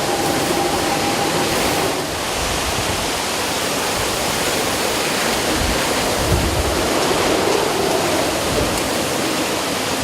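Steady roar of hurricane wind and water. A faint whine fades out about two seconds in, and low buffeting comes around six seconds in.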